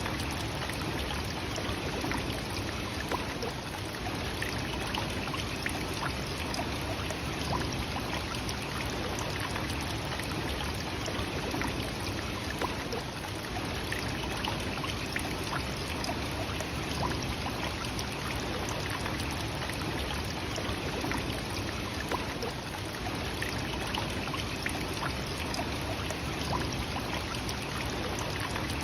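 Nachi Falls, a tall single-drop waterfall, as a steady rush of falling water with no pauses or changes.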